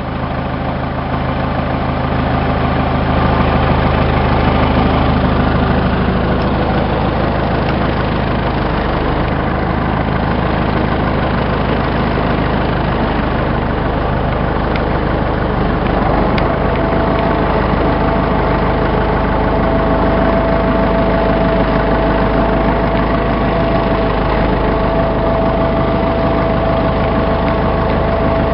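A heavy vehicle engine idling steadily; about halfway through, a steady higher whine joins it.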